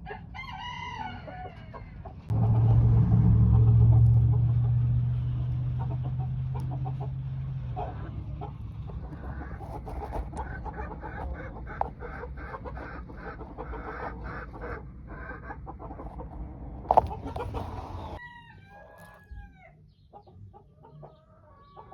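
Chickens clucking in quick runs of short notes, with a rooster crow near the start and small bird chirps near the end. A loud low steady hum sounds for several seconds early on, and there is a sharp knock shortly before the end.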